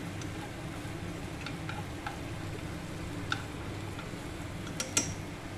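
Chopped aromatics frying gently in oil in a saucepan, stirred with wooden chopsticks that click against the pan now and then, the loudest click near the end, over a steady low hum.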